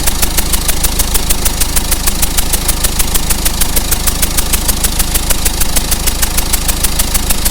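Car engine idling with a rapid, even ticking at about eight a second, from compression gas escaping past a worn injector copper washer: an injector compression leak, which the mechanic traces to the third cylinder.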